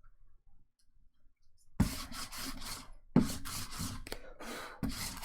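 Trading cards being slid and rubbed against each other as they are handled: rasping strokes about a second long each, the first starting about two seconds in.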